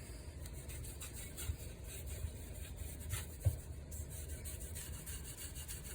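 Faint rubbing as mineral oil is wiped by gloved hand into a dry wooden charcuterie board, with a few light knocks from the board being handled.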